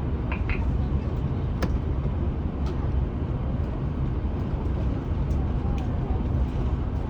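Steady low rumble inside the cabin of an Airbus A350 on the ground after landing, with a few faint sharp clicks.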